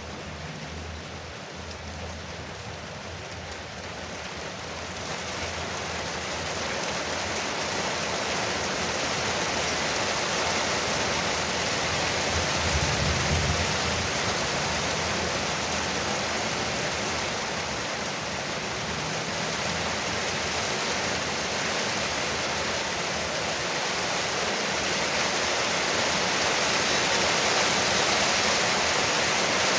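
Heavy rain pouring on a porch roof, a dense steady hiss that swells louder a few seconds in and then stays heavy. A brief low rumble sounds near the middle.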